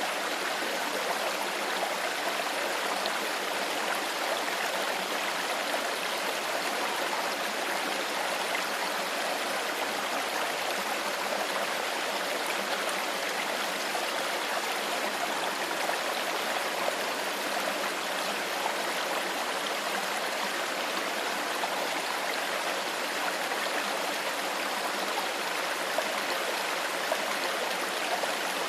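Shallow stream flowing steadily over stones: an even, unbroken rush and babble of water.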